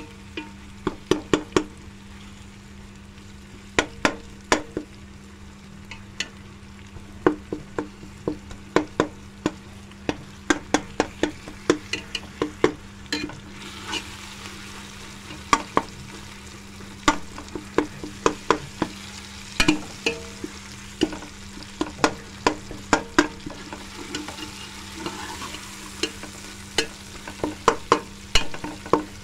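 Minced meat (qeema) frying in oil in an aluminium pot, stirred with a metal spoon: irregular sharp clinks and scrapes of the spoon against the pot over a steady sizzle. The sizzle grows louder about halfway through.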